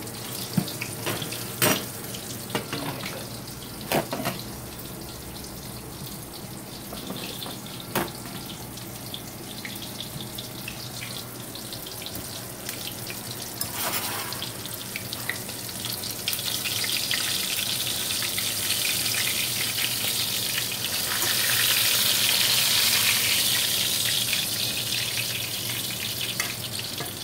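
Breaded cube steak frying in hot oil in a stainless skillet: a steady sizzle that grows louder past the middle and is loudest a few seconds before the end. A few sharp knocks come in the first eight seconds.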